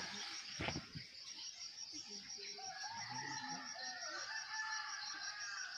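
Rooster crowing faintly, drawn-out calls in the middle and later part, over a faint steady high pulsing.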